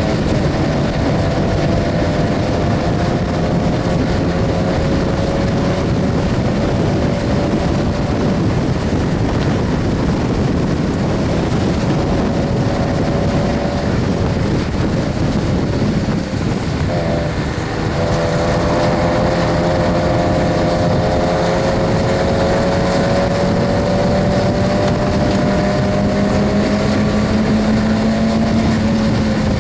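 Stock first-generation Mazda MX-5 Miata's four-cylinder engine heard from inside the cabin under racing load, pulling hard with its pitch climbing slowly, over heavy wind and road noise. About halfway through the engine note drops away for a second or two, then picks up and climbs again.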